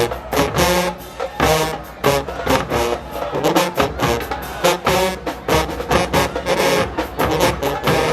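HBCU show-style marching band playing a loud, rhythmic tune: brass horns over a driving drumline.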